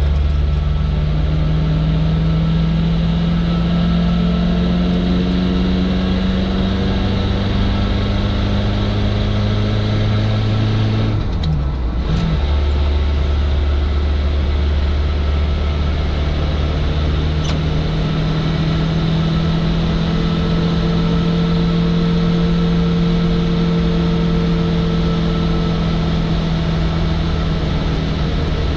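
Suzuki Samurai's engine heard from inside the cabin on the move: the engine note climbs slowly as it pulls in gear, breaks off briefly about twelve seconds in at a gear change, then carries on steadily at a lower pitch.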